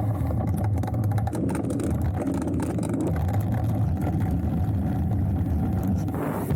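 Wind rushing over a helmet- or bike-mounted action camera's microphone, with mountain bike tyres rolling over the trail and scattered crackles and clicks from the hardtail bike as it is ridden downhill.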